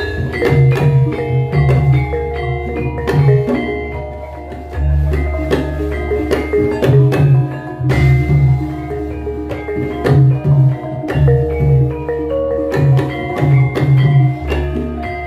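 Javanese gamelan playing an instrumental passage: struck metallophones ringing out note after note over repeated low drum strokes.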